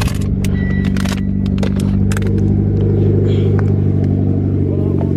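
Mitsubishi Lancer Evolution X's turbocharged 2.0-litre four-cylinder idling steadily just after a cold start. It has a multiple-cylinder misfire, which the owner blames on the spark plugs.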